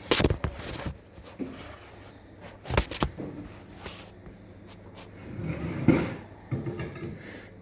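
Scattered knocks and clunks of tools and metal parts being handled on a workbench: sharp strokes near the start and about three seconds in, and a longer rough scraping clunk about six seconds in.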